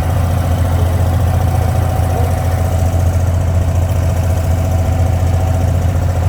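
Abra water taxi's inboard diesel engine running steadily, an even low drone with no change in speed.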